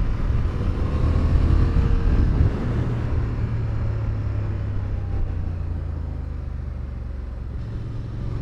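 Motorcycle engine running under the rider, with road and wind noise on the on-board microphone; it eases a little quieter and steadier about two and a half seconds in.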